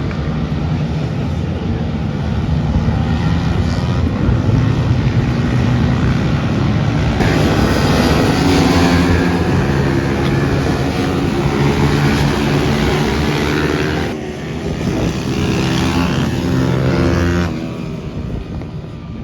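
Pit bike engines racing: small motorcycle engines revving hard, their pitch rising and falling again and again as they accelerate and change gear. Louder from about seven seconds in, easing off near the end.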